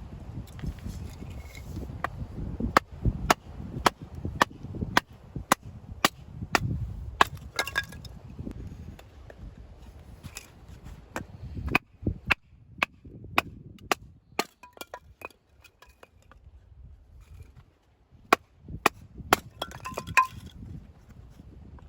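Firewood being chopped with a hatchet: a run of sharp wooden strikes about two a second, then sparser blows with a pause before a last few.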